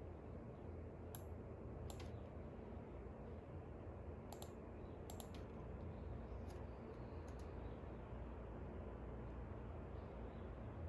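A few short, sharp clicks, singly and in quick pairs, scattered through the first seven and a half seconds over a steady low background rumble.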